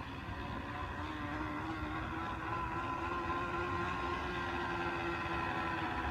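A small vehicle's engine note running steadily, its whining pitch and loudness slowly rising.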